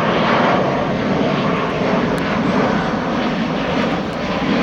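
EasyJet twin-engine jet airliner flying past low overhead, its turbofan engines giving a loud, steady rushing roar.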